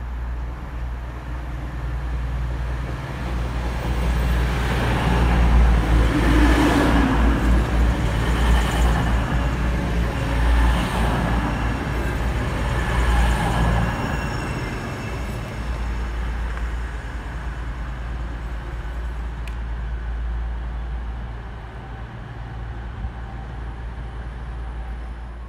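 A train passing through the station: a rumbling rush that builds over about five seconds, swells and dips roughly every two seconds while it is loudest, then slowly dies away.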